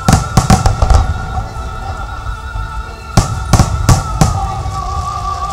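Fireworks going off in the sky: a quick volley of bangs in the first second, then four more about three seconds in, over music with long held notes.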